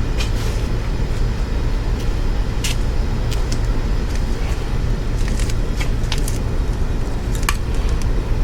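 A steady low rumble with scattered short clicks and taps, as hand tools work on a Yamaha SR400 motorcycle's handlebar parts.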